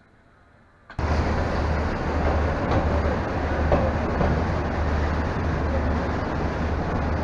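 Steady rumble of a passenger train coach running along the track, heard from outside the coach; it starts abruptly about a second in after near silence.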